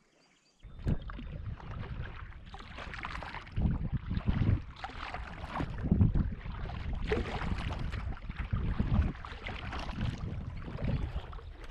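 Solo canoe being paddled: paddle strokes pulling through the water with a swish and splash, surging about every second and a half, over a low rumble of wind on the microphone. It starts abruptly about a second in.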